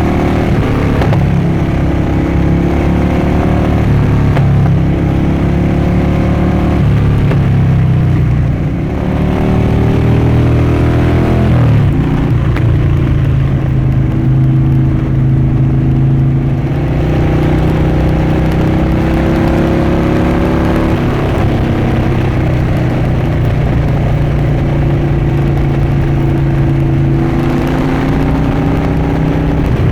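Harley-Davidson Dyna Switchback's V-twin engine and exhaust under way, the engine note climbing and dropping back at each upshift several times, with a long steady stretch of cruising in the middle.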